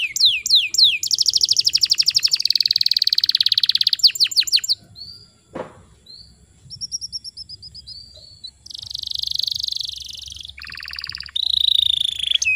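Domestic canary singing: fast high trills, falling whistled sweeps and buzzy rolls, loud at first, then softer short phrases, then loud buzzy rolls again near the end. A single sharp click sounds in the quieter middle part.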